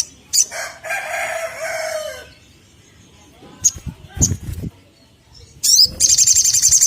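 Sunbird calls: sharp high chips, then near the end a rising note that runs into a fast, high trill. In the middle a rooster crows once for about a second and a half.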